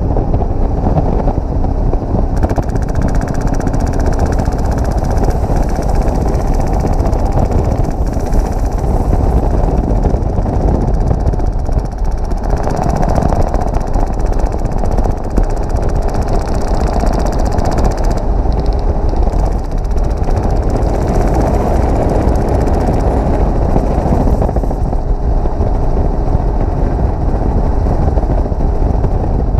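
Steady, loud helicopter engine and rotor noise heard from the open cabin door, with bursts of full-auto fire from an HPA-powered airsoft RPK (Wolverine Inferno system).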